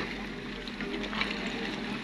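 Excavator's diesel engine running steadily, with scattered light clicks and rattles over it.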